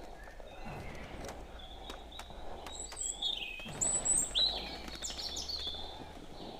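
Birds chirping, with short calls that drop in pitch, busiest about three to four and a half seconds in, over a faint low hum that stops near the end.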